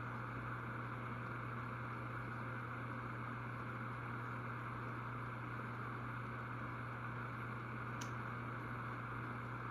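Minka Aire Supra ceiling fan, made by AirCool with a 188x15 motor, running steadily: a low motor hum under an even rush of air, with one brief click near the end.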